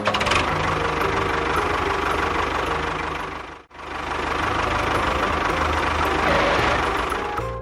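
An engine running with a fast, even knocking rhythm, broken by a brief drop-out about halfway through.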